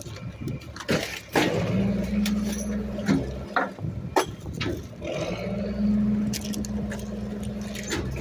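Rear-loading garbage truck's engine revving up to run the hydraulic packer blade: a steady drone that cuts out for over a second near the middle and then comes back up. Sharp metal clanks and knocks come in the first half.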